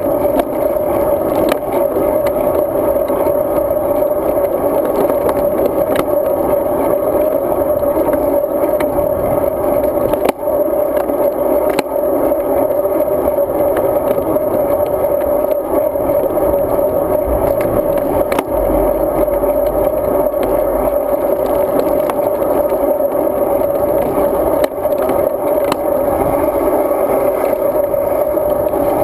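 Steady riding noise of a road bike on the move, road and air rush picked up by a GoPro Hero 2 mounted on the bike, with a few faint clicks and rattles from bumps.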